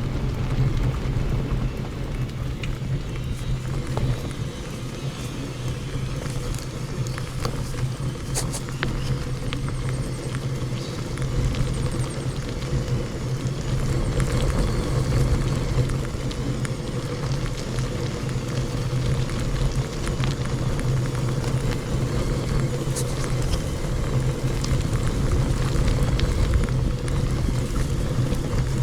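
Steady low rumble of travel along a dirt road, with a constant low drone and scattered faint ticks and rattles.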